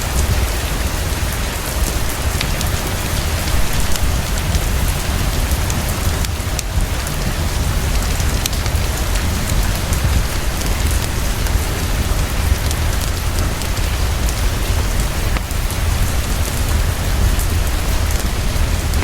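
Heavy, steady rainfall with a low rumble underneath, mixed with scattered sharp crackles from a wood fire in a fireplace.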